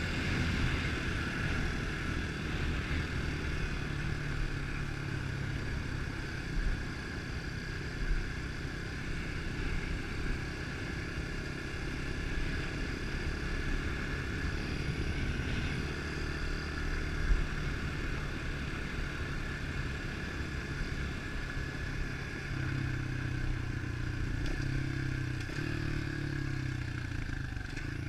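A 110cc pit bike's small engine running steadily while being ridden, with a few short knocks along the way. Near the end the engine note rises and steps up and down a few times.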